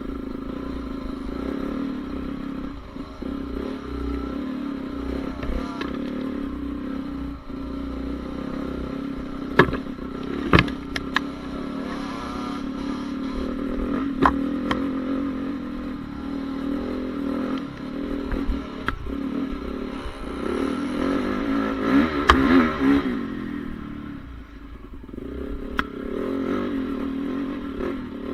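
Single-cylinder four-stroke engine of a 2014 Honda CRF450R motocross bike running under changing throttle, with a few sharp knocks and some clatter along the way. Its note swells about three-quarters of the way through, then drops away briefly before picking up again.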